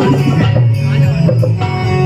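Indian folk music with dholak drumming under a melody line, played continuously.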